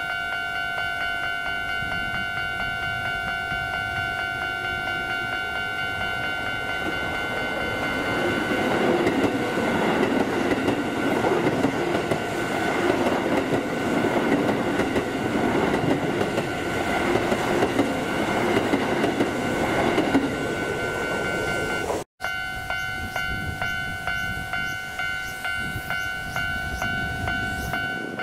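Keisei commuter electric train passing close by, its wheels clattering rhythmically over the rail joints, loudest in the middle. A second train approaches after a brief break near the end, with its wheel clatter starting up. A steady high-pitched tone runs underneath throughout.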